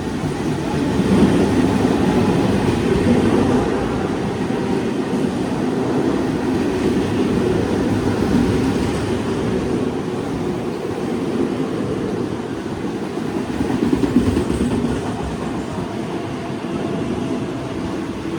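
A train running along the track: a loud, continuous rumble of wheels on rails. It swells over the first second or two and then holds steady with small rises and falls.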